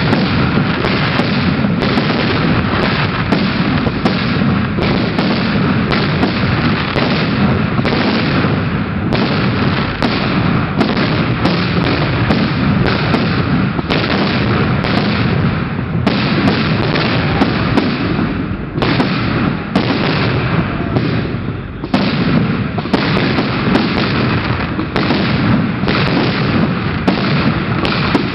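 Fireworks display: a dense, unbroken barrage of shell bursts and bangs, one on top of another, easing off briefly twice about two-thirds of the way through.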